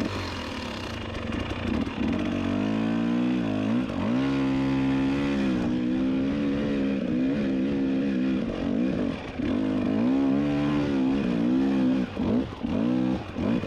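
Dirt bike engine running and being ridden, its revs rising and falling repeatedly with throttle and gear changes, with short quick throttle blips near the end.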